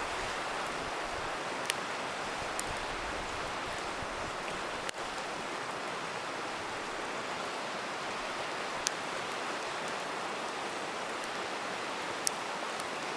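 River water rushing steadily, with a crackling campfire giving a few sharp pops, four that stand out.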